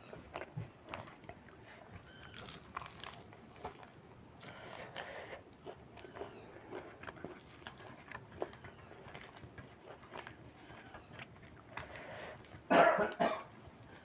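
Close-up eating sounds: chewing and biting, with one louder, noisier bite about 13 seconds in. A faint, high, squeaky animal call repeats every second or two underneath.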